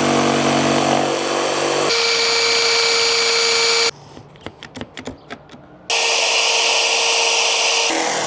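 An electric power tool running on wood, heard in clips that start and stop abruptly: a steady whine for about four seconds, then about ten short rubbing strokes, then the tool running steadily again for two seconds.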